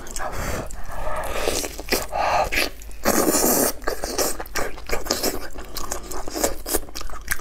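Close-miked wet chewing and lip-smacking on boiled lamb rib meat, with meat being pulled off the bone. A short voiced "wa" of appreciation comes about two seconds in.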